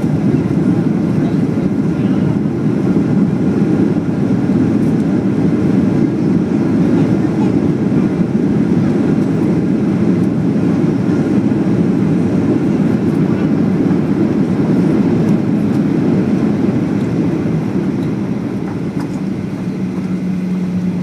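Loud, steady roar of a Boeing 737-800's CFM56-7B jet engines and rushing air, heard from inside the cabin during the landing. It eases a little near the end as a steady low hum comes in.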